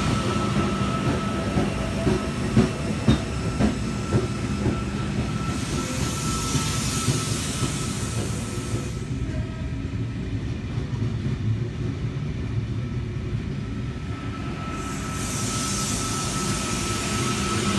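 A Sydney Trains V-set double-deck electric intercity train rolls past along the platform with a steady rumble of wheels on rail. Sharp wheel clicks over rail joints sound in the first few seconds, and a thin steady whine fades out midway and comes back near the end.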